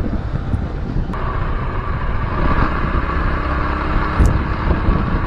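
Motorcycle engine running while riding, under heavy wind noise on the microphone. About a second in a steady higher engine note joins the rumble, and there is one low thump near the end.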